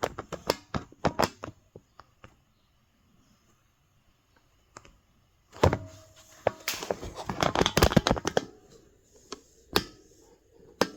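Handling noise on a workbench: quick runs of small clicks and knocks in the first second and a half, a denser patch of clicking and rustling from about halfway, then two single clicks near the end.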